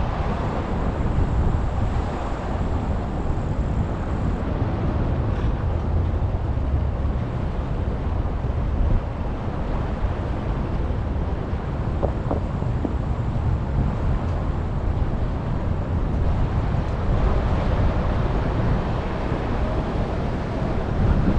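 Wind rushing over the microphone of a GoPro on a moving bicycle: a steady low rumble with no breaks.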